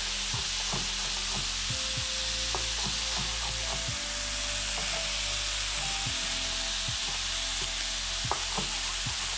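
Chicken strips frying in oil in a pan with a steady sizzle. Over it comes a knife tapping on a chopping board at an even pace, a couple of cuts a second, as a bell pepper is finely diced.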